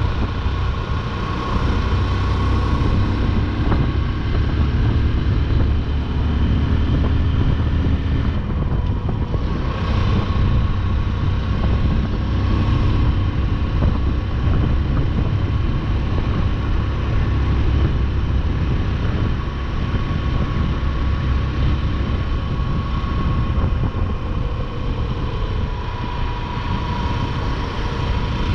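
Motorcycle running at a steady cruise on the open road: steady engine drone mixed with wind and road noise.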